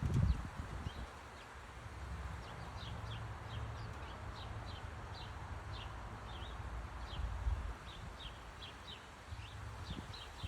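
Small birds chirping, many short high down-slurred chirps repeating a couple of times a second, over a low rumble with a brief thump just after the start.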